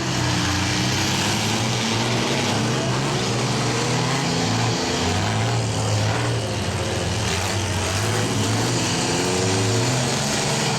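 Engines of the mini vans and mini trucks in a demolition derby revving up and down as they drive around the arena.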